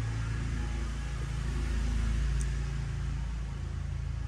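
Low, steady engine-like rumble.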